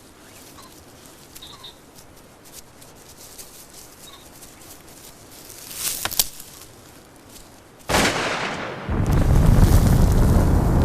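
Shotgun fired at vermin: a sharp bang about six seconds in and a louder one about eight seconds in. The second is followed by a long, loud low rumble.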